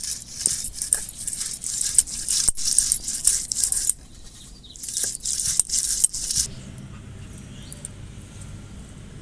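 Onion being ground to a paste on a flat grinding stone with a stone roller (sil-batta), scraped back and forth in two spells of scraping with sharp clicks; it stops about six and a half seconds in.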